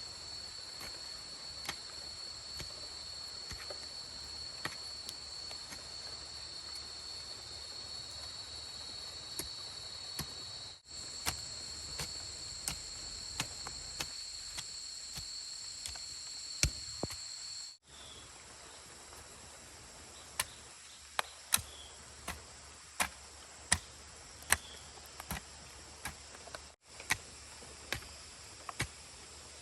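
Steady high-pitched chorus of insects such as crickets or cicadas, with sharp knocks over it that come about once a second in the second half. The insect sound drops away after an abrupt cut about two-thirds of the way in.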